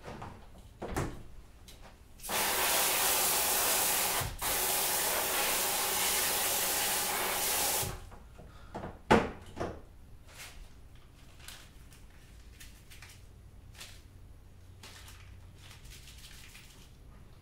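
Water running hard for about five and a half seconds, cut off for an instant partway through, then stopping. Small knocks and clatters of objects being handled follow, with one sharper knock about a second after the water stops.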